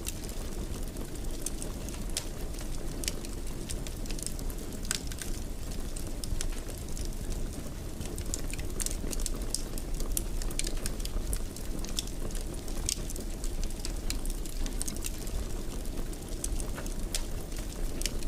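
Wood fire crackling in a fireplace: frequent small sharp pops and snaps at irregular intervals over a steady low rumble of the burning fire.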